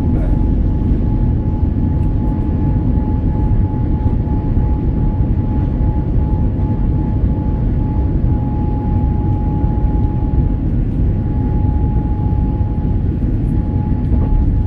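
Boeing 787 Dreamliner airliner running: a steady low rumble with a constant mid-pitched whine, level throughout.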